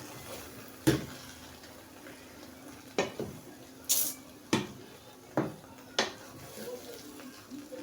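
A cooking spoon knocking and scraping against a pot while stirring fried rice: about six sharp clacks at uneven intervals, over a faint hiss.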